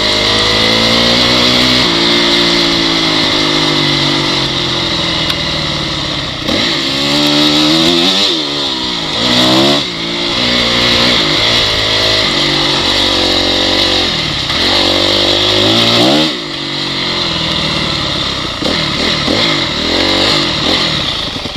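Honda CRF dirt bike's single-cylinder four-stroke engine running under load, the revs climbing and falling as it is ridden. There are sharp drops in revs about a third of the way in, again shortly after, and about three quarters of the way through.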